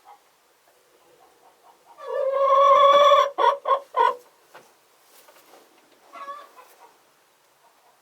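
Domestic chickens calling: one loud drawn-out call about two seconds in, followed straight away by three short clucks, with softer clucks near the start and again later.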